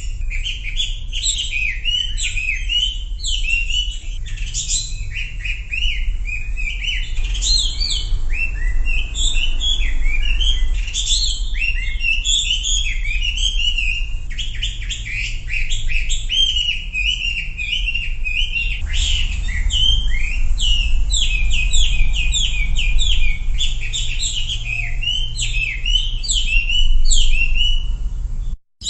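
Wambi birdsong: a dense, continuous run of quick high chirps and short falling notes with a steady low hum underneath. The recording is spliced together, with the texture shifting abruptly a few times and a brief dropout to silence just before the end.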